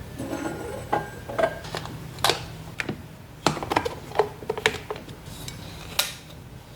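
Teaware being handled while tea is made: a quick series of light clinks and knocks as cups, lids and utensils are set down and moved, a few with a short ring.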